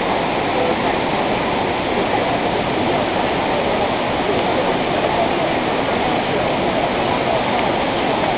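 Steady, unbroken rush of a waterfall: continuous falling water with no change in level.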